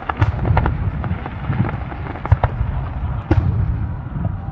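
Aerial firework shells bursting in quick, irregular succession: many sharp bangs over a continuous low rumble.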